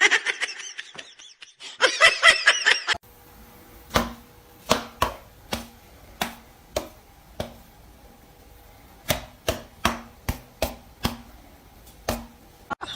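High wavering chirps for the first few seconds, then a run of sharp, irregular taps or knocks, one or two a second, over a faint steady hum.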